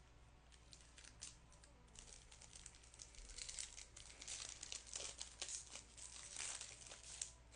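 Faint crinkling and tearing of a trading-card pack wrapper being opened, a few scattered crackles at first and then dense crackling from about two seconds in.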